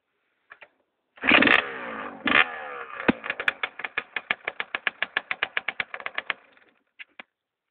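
Small kick-start motorcycle engine catching: it fires with a burst of revs, revs once more, then drops to evenly spaced firing beats, about six a second, that fade out as it stalls, with a couple of clicks after. The stall comes from too little throttle while starting.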